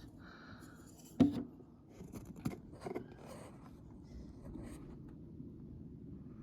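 A few small clicks and scraping or rustling sounds of things being handled, with one sharp click about a second in.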